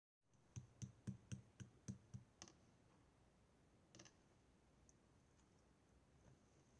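Clear slime being pressed and worked by hand, giving faint clicking pops, about four a second for the first two seconds, then one more pop about four seconds in.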